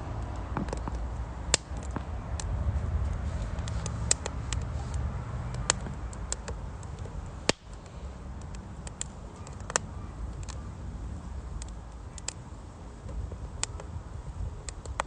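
Firewood burning in a mesh-bottomed stove, crackling with irregular sharp pops and snaps, a few louder than the rest, over a steady low rumble.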